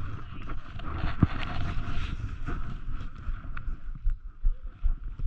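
Wind buffeting the microphone in an uneven low rumble, with scattered short knocks and rustling.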